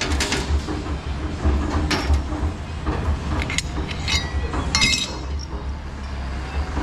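Pieces of scrap metal clinking and rattling against each other several times, over a steady low rumble.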